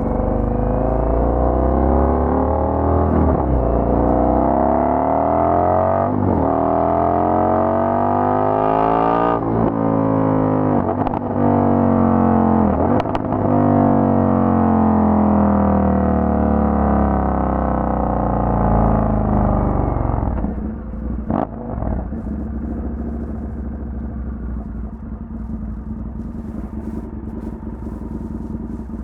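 Indian FTR 1200's V-twin through a Toce aftermarket exhaust, the motorcycle accelerating through several gears: the engine note climbs and breaks at each upshift. About twenty seconds in it falls back to a lower, quieter steady run.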